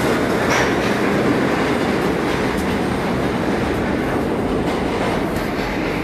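New York City subway train running on the tracks: a steady, loud rumble and rattle of the wheels and cars.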